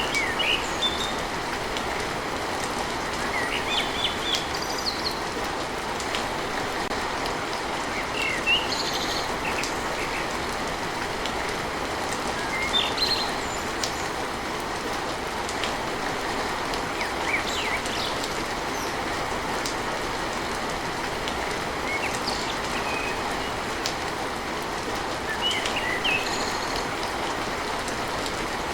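Steady rain on a tin roof, an even hiss, with short bird chirps now and then.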